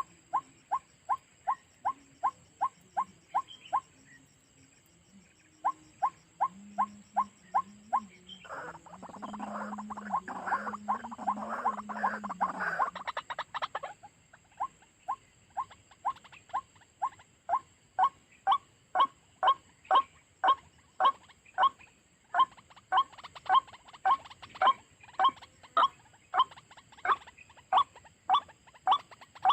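White-breasted waterhen calling: a long run of short, repeated calls at about two to three a second, broken by a brief pause and by a harsher, noisier chattering stretch near the middle, after which the calls resume and grow louder.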